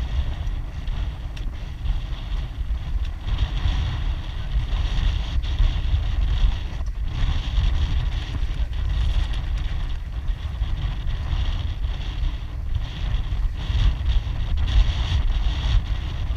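Wind buffeting the microphone aboard a moving boat: a loud, fluttering rumble over a steady hiss.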